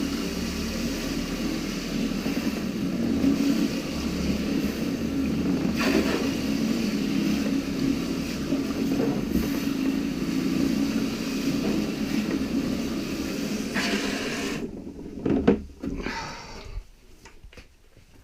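Paint roller spun fast in a Storch Tornado roller cleaner, driven by hose water: a steady whirring hiss of spraying, spinning water. It cuts off sharply about fourteen and a half seconds in, followed by a few knocks.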